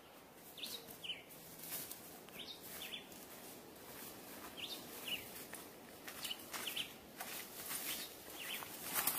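A bird calling faintly in short two-note chirps about every two seconds, over soft crunching footsteps on dry leaves and grass that get louder near the end.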